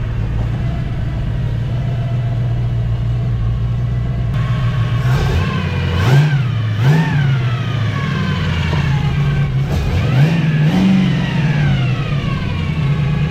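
Tri-power V8 engine in a custom mini truck idling on its first run, blipped up in revs about four times in the middle of the stretch and dropping back to idle each time. A whine from its gear drive, which it has been called obnoxiously noisy, rises and falls with the revs.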